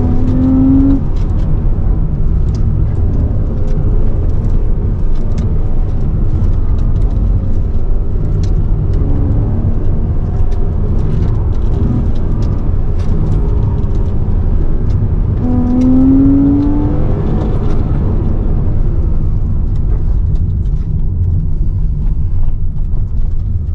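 2009 Porsche Cayman's flat-six engine driven hard at high revs, with the pitch rising sharply about half a second in and again about sixteen seconds in. Near the end the car brakes and the engine drops toward idle.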